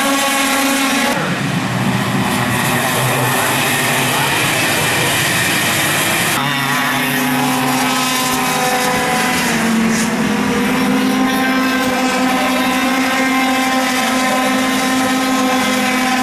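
Racing karts' two-stroke engines running at high revs, several at once, their pitch rising and falling with throttle. The sound changes abruptly about a second in and again about six seconds in.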